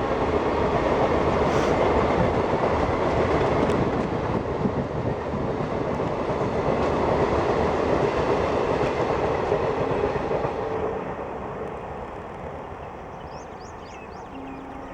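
Express train running through a station at high speed: loud, steady noise of wheels on rail and rushing air. It fades away over the last few seconds as the train recedes.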